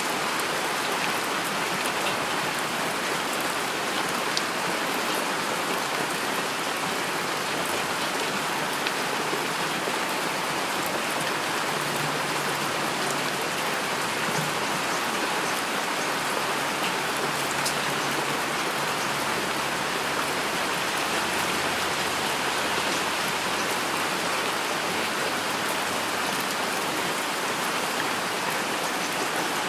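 Steady rain falling, a dense even hiss with individual drops ticking sharply here and there.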